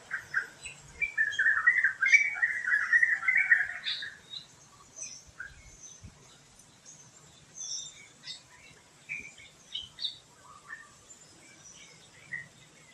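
Wild birds chirping: a loud rapid run of chattering notes for the first few seconds, then scattered short high chirps and calls.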